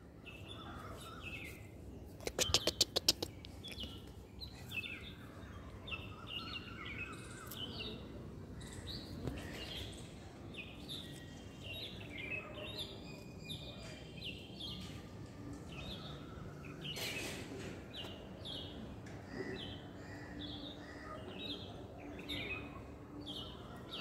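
Small birds chirping over and over, short high calls following one another all the way through. About two seconds in, a quick run of about ten sharp clicks stands out as the loudest sound.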